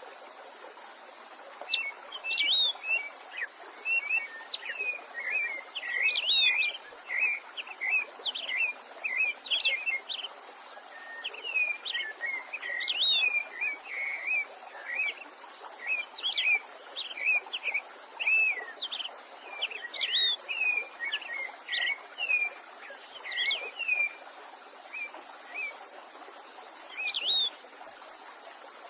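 A songbird singing a long string of quick, sweeping chirped notes, phrase after phrase, over the steady hiss of a running stream.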